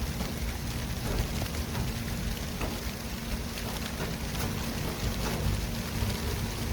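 City traffic ambience: a steady low rumble under a constant hiss, with scattered faint ticks.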